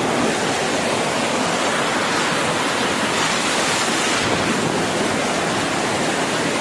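Hurricane-force wind rushing steadily, an even unbroken noise.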